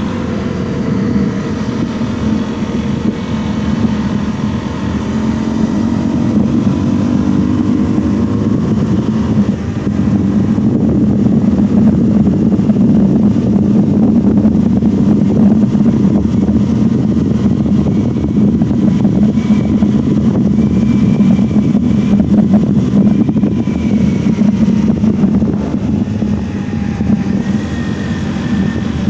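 Honda CRF250L's 250 cc single-cylinder engine running while riding. Its pitch falls over the first couple of seconds, then it grows louder and runs fairly steadily before easing off near the end, with wind and road noise underneath.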